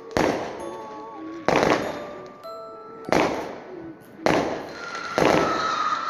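Fireworks exploding overhead, about six sharp bangs roughly a second apart, each dying away with a short echoing tail.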